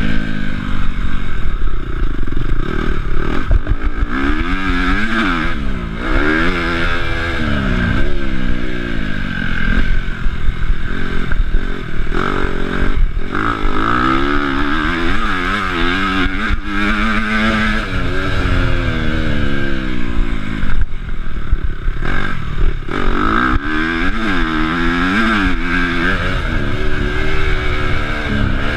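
Honda CRF250 four-stroke single-cylinder motocross engine being ridden hard, its pitch climbing and dropping again and again as the throttle is opened and shut, heard up close from the rider's chest.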